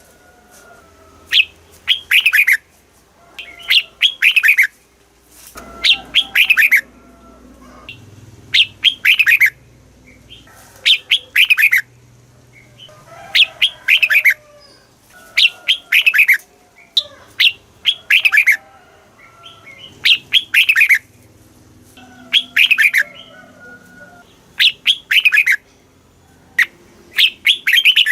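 Red-whiskered bulbul singing: short, loud, chirpy phrases repeated about every two seconds, each ending in a clear downslurred note.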